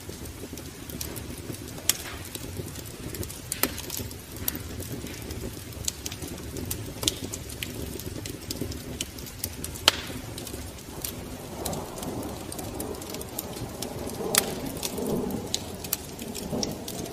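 Wood fire crackling in a fireplace, with irregular sharp pops over a steady low hiss and rumble of the flames.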